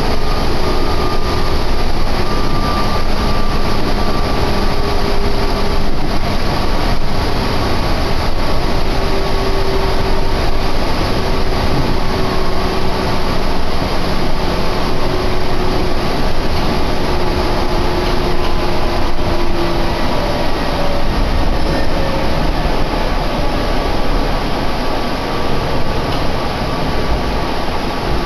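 Meitetsu electric train running, heard from inside the passenger car: a steady loud rumble of wheels and running gear, with faint motor whine tones that slowly fall in pitch.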